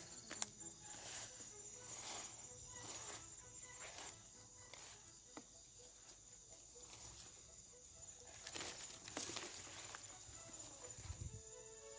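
Night insects trilling in a steady high-pitched drone, with soft rustling noises about once a second.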